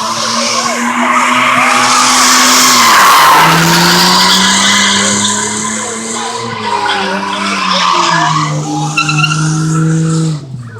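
A car engine held at high revs while its tyres spin and squeal on pavement. The engine note steps down twice, and the sound cuts off abruptly near the end.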